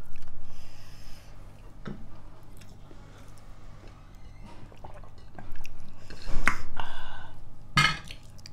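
Close-miked chewing and eating sounds from a vegetarian rice meal, irregular and louder about two-thirds of the way through, with a couple of sharp clicks.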